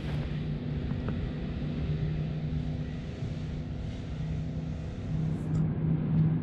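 Steady engine drone with a held low hum, rising slightly near the end.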